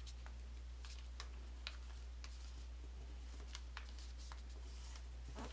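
A sheet of paper being folded by hand, giving faint scattered ticks and crinkles as it is handled and creased, over a steady low electrical hum.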